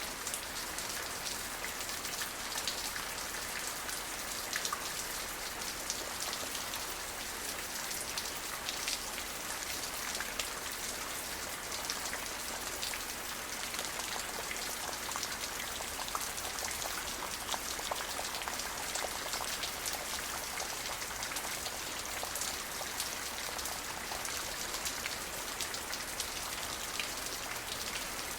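Steady rain falling on a surface, a dense even hiss with many individual drops pattering irregularly throughout.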